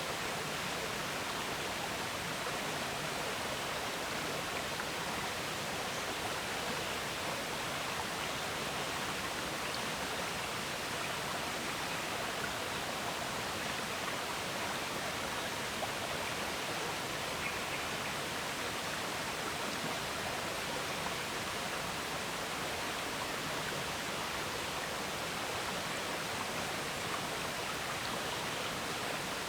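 River water flowing and gurgling: a steady rushing with no let-up.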